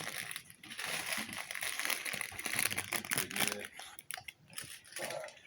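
Wrapping paper crinkling and tearing in irregular bursts as a boxer dog rips a present open.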